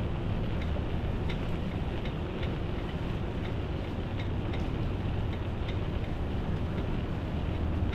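Steady low rumble of city traffic, with short light ticks about once a second.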